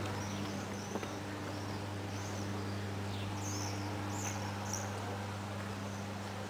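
Small birds chirping in short, high calls, in bursts near the start and again around the middle, over a steady low hum.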